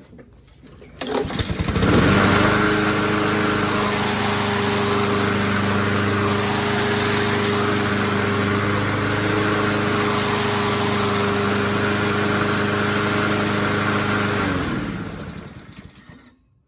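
Honda-engined walk-behind lawn mower pull-started about a second in, catching on the first pull and running steadily with no clank now that its worn blade adapter has been replaced. Near the end it is shut off and winds down, its pitch falling as it stops.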